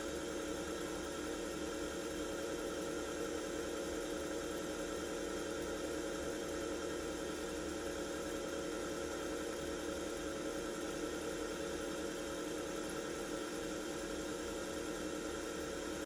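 Steady electrical machine hum made of many even tones, starting and stopping abruptly.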